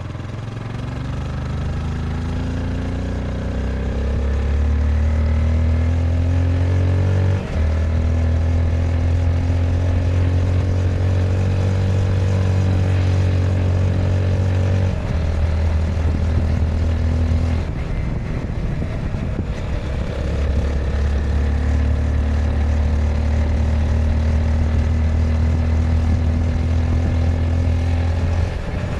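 Honda CBR 250R single-cylinder engine pulling under throttle, its pitch climbing for the first several seconds with a brief break at a gear change about seven seconds in, then held steady. The pitch drops about fifteen seconds in and eases off for a few seconds, then holds steady again from about twenty seconds, with another short break near the end.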